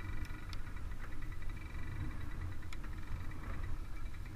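A child's small dirt bike engine running steadily, with a low rumble underneath.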